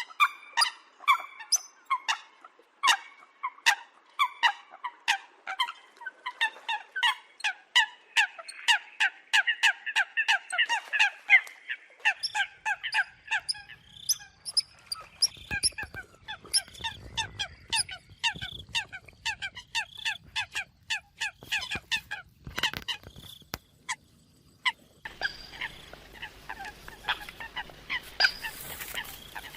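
Eurasian coots calling: a fast, dense string of short, sharp calls, several a second. About 24 seconds in there is a brief pause, and the calls resume over a hissier background.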